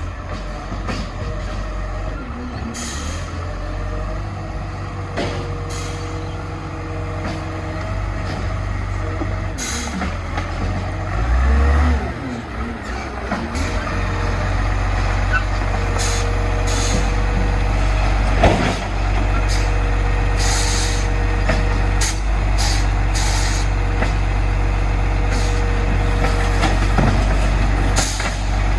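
Garbage truck at work: its diesel engine running with a steady low rumble, many short hisses from the air brakes, and a steady whine that comes and goes.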